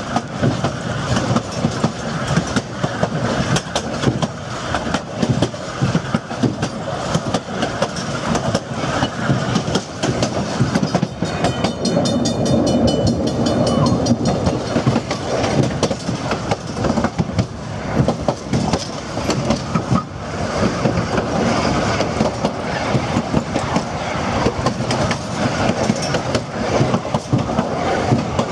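Durango & Silverton narrow-gauge passenger cars rolling along, wheels clattering over the rail joints in a steady clickety-clack. A faint high-pitched ringing comes in about twelve seconds in.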